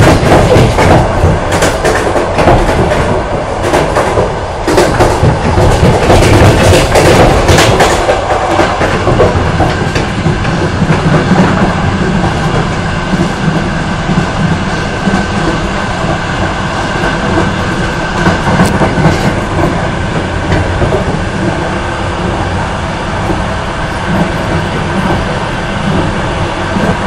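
Intercity passenger train running at speed, heard from aboard: a steady rumble of wheels on rails, with a run of sharp clicks and knocks through the first third, then a smoother run.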